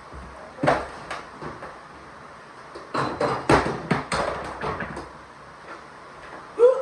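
A run of knocks and clatters, like a door or cabinet being opened and things moved about, densest in the middle, with a short rising squeak near the end.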